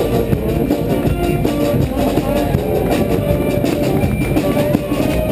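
Marching street band playing: a driving snare and bass drum beat under held horn notes.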